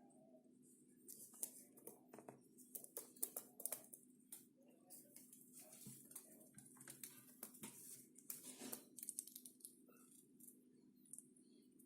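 Parrot making quiet, irregular clicks and taps with a few soft muttering sounds.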